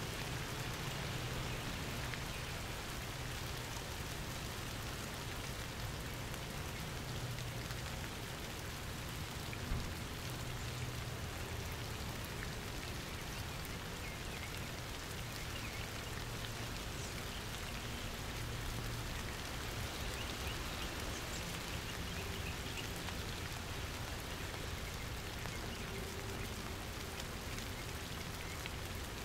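Steady rain falling and pattering on surfaces, with scattered drips and a low rumble underneath; one sharper tick stands out about ten seconds in.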